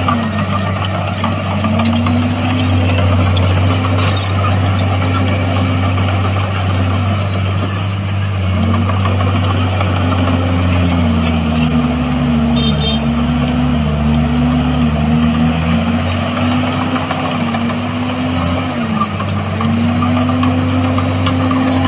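Heavy diesel engine of a bulldozer running steadily, its pitch dipping briefly and recovering several times, most often around the middle.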